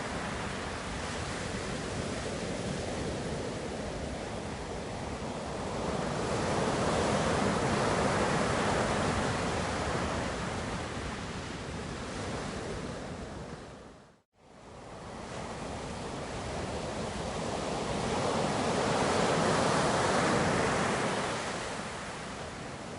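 Ocean waves washing onto a shore: a steady rush that swells twice and ebbs between. Near the middle the sound dips briefly into silence and fades back in.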